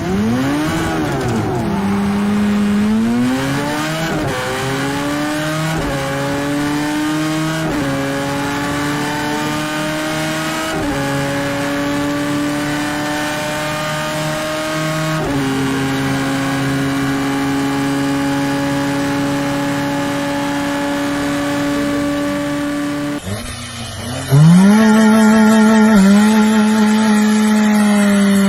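A car engine accelerating through the gears: its pitch climbs in each gear and drops at each of about five upshifts, each gear lasting longer, then holds steady at speed. Near the end it cuts to another engine that revs up quickly and holds a steady high pitch.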